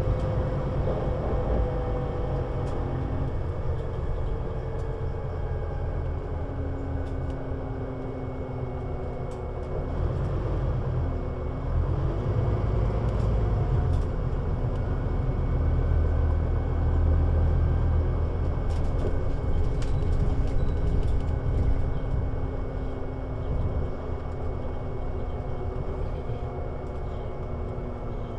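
Scania Citywide articulated bus under way, its diesel engine and drivetrain running with a deep steady rumble. Around ten seconds in the engine note dips and climbs again, and it is louder from about sixteen to twenty-one seconds as the bus pulls harder.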